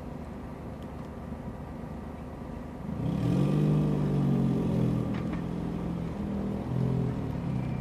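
A vehicle engine revs up about three seconds in and runs loud for several seconds: a low droning note that rises, holds, dips briefly and rises again before falling away near the end. A steady low engine rumble sits underneath throughout.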